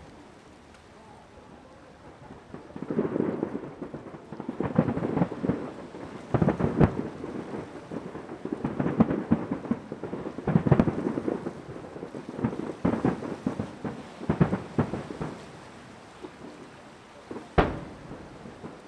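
Aerial fireworks shells bursting in dense volleys from about three seconds in, booms and crackle running into one another, easing off near the end with one sharp single bang.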